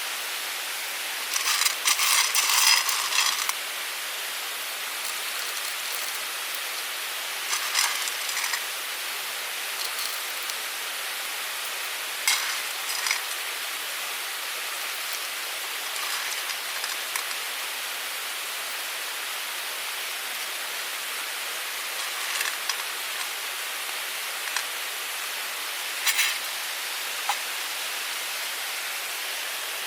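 Steady rushing of a mountain stream, with a few short, louder unidentified sounds coming and going, the longest lasting about two seconds near the start.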